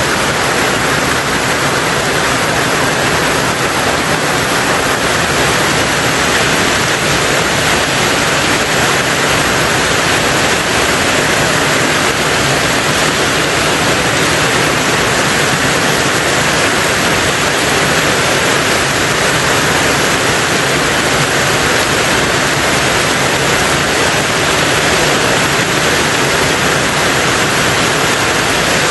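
Rain falling steadily on a tin roof: an even, unbroken hiss with no single drops or breaks standing out.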